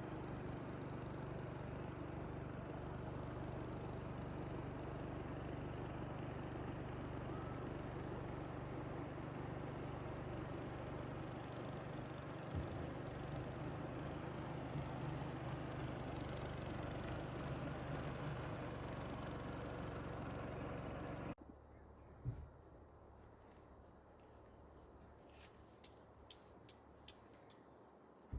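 A steady engine hum over a broad rushing noise, which cuts off suddenly about three quarters of the way through. After it, quiet with crickets trilling at a steady high pitch and a few faint ticks.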